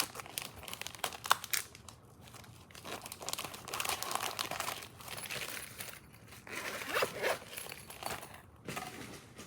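Plastic packaging crinkling and rustling as it is handled, coming and going irregularly, with a sharp click about a second in.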